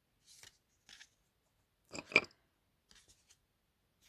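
Tarot cards being handled: a few short papery rustles and slides, the loudest and sharpest about two seconds in.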